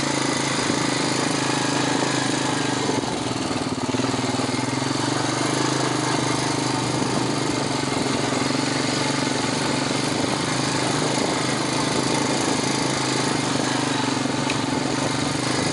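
Four-wheeler (ATV) engine running steadily at slow riding speed: a constant low drone over a noisy rush of ride noise, easing briefly about three seconds in.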